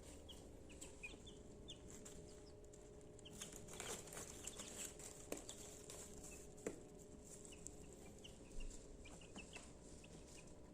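Young chicks peeping softly with many short, high peeps, while they scratch and rustle in dry bedding. There are a few sharp taps around the middle, over a faint steady hum.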